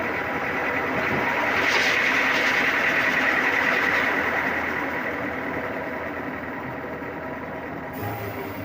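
Sawmill machinery running steadily, swelling louder for a few seconds with a hissing, whining edge, then easing off.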